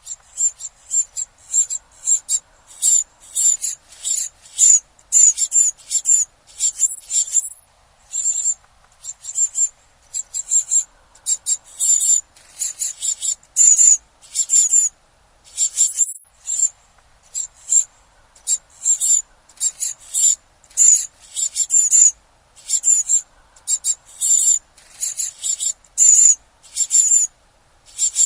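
Small birds calling: very high, thin chirps repeated in quick clusters, with brief pauses between clusters.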